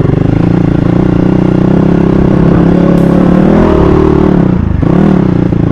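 Dirt bike engine running steadily under throttle. It revs up a little about three and a half seconds in, eases off briefly near five seconds, then picks up again.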